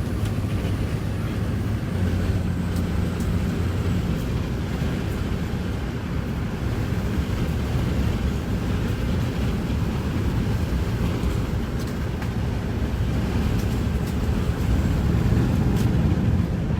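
Car running at speed, heard from inside the cabin: a steady low engine drone under dense road and wind noise, with a few faint light ticks.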